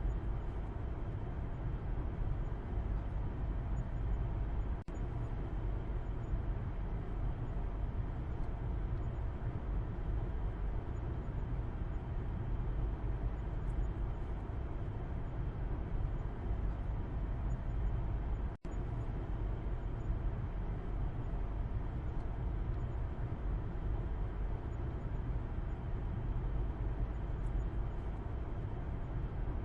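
Car interior road noise heard from the back seat while driving: a steady low rumble of tyres and engine with an even hiss above it. It cuts out for an instant twice.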